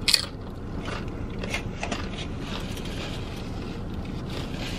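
Close-up crunching and chewing of a tortilla chip: one sharp crunch right at the start, then a few softer crunches while chewing, over a steady low hum.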